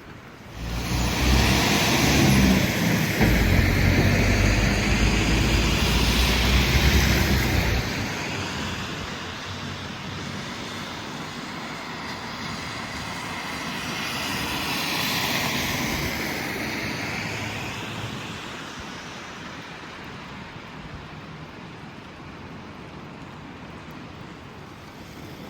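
A motor vehicle passing close on a wet street, its engine rumbling loudly with tyre hiss for several seconds before fading, then a second vehicle's hiss swelling and fading around the middle.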